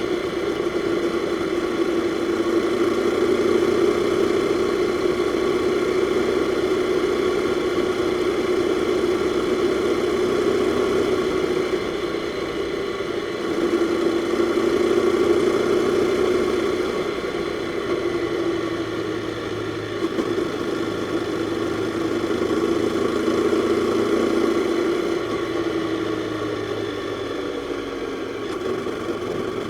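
Jawa 42's single-cylinder four-stroke engine running under way, its note rising and falling gently with the throttle, with a slide down in pitch as it eases off near the end.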